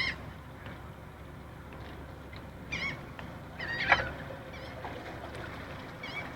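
Birds calling: short, high, squeaky calls that bend in pitch, repeated several times over a steady low background rumble.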